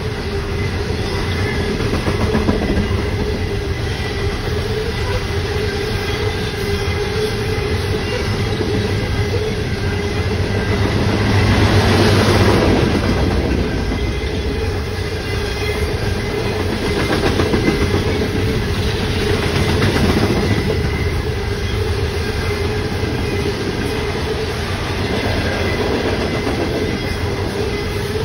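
Freight train cars rolling past close by: a steady rumble with the clickety-clack of wheels over the rail joints, swelling a little louder about twelve seconds in.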